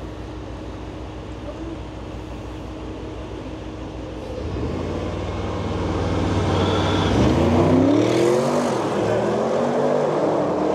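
A car engine accelerating, its pitch climbing and growing louder from about halfway through, loudest around eight seconds in, then dropping back and climbing again. A low, steady engine rumble runs underneath at the start.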